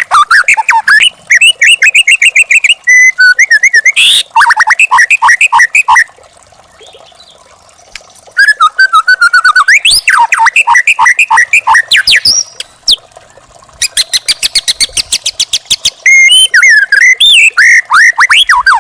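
White-rumped shama (murai batu) singing a varied song of whistles, fast repeated notes and rising sweeps, broken by two short pauses, over a faint steady hiss.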